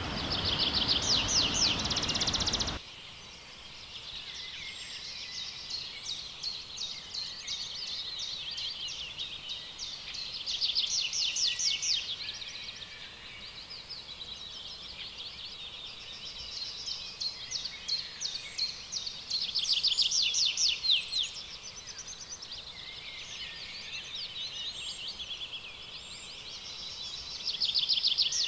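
Rainforest bird chorus: dense high chirping, with a fast trilled phrase of rapid notes that comes back about every nine seconds. A broad hiss under the first few seconds cuts off suddenly.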